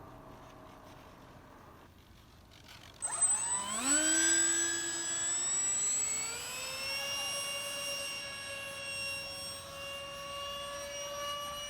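Electric ducted fan of a small RC jet spooling up. A faint steady hum gives way, about three seconds in, to a sudden whine that rises in pitch for a few seconds and then holds steady and high.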